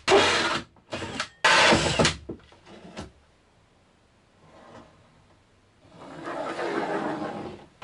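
A power tool working into a wooden cabinet panel in several loud bursts with short pauses over the first two seconds, then a quieter stretch of the same kind of noise near the end.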